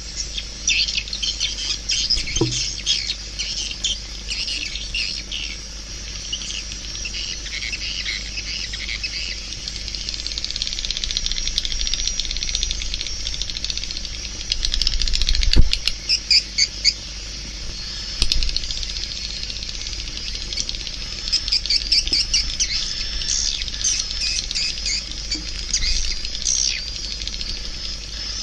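Swiftlets chirping and twittering in a dense, continuous high-pitched chorus, with a single low thump about halfway through.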